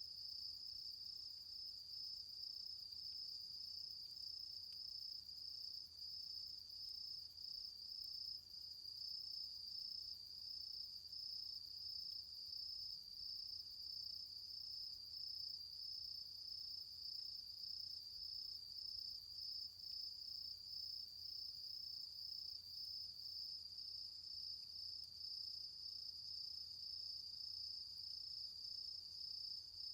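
Autumn insect song: one steady, high-pitched trill that pulses slightly and evenly and never breaks.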